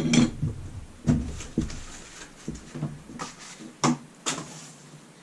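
Repaired Leslie speaker back caps being handled and set down: a string of knocks and clatters, loudest at the start and ending about four and a half seconds in.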